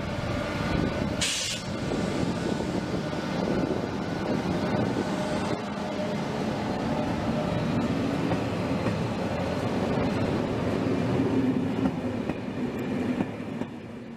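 Train running past with a steady rumble and rail noise, with a short high hiss about a second in; the sound drops away near the end.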